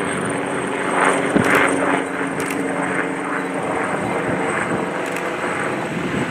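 Jet airliner engines running: a steady rushing noise with a constant high whine and a low hum, swelling briefly about a second in.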